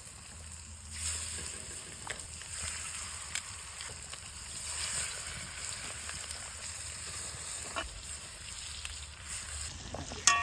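Chicken pieces frying in oil in a pot over a wood campfire: a steady sizzle with a few scattered pops.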